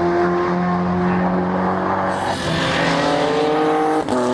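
Racing cars' engines running hard on track, several engine notes at once. Their pitch steps down twice and then climbs, with a rising hiss about two seconds in and a sharp click near the end.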